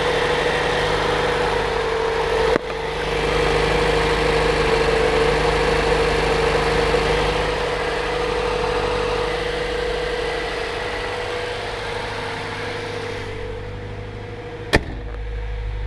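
Honda B16B 1.6-litre DOHC VTEC four-cylinder idling steadily just after a cold start, with a steady whine over the engine note. A sharp click about two and a half seconds in and another near the end, and the sound grows quieter through the second half.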